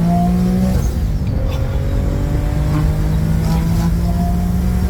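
Twin-turbo Infiniti G37's V6 pulling under acceleration, its pitch climbing. About a second in the note breaks off briefly with a few clicks, then it comes back at a lower pitch and climbs again.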